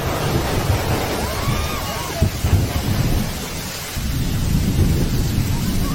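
Storm noise: a steady hiss of heavy rain or rushing water over a continuous low rumble, dipping briefly about four seconds in.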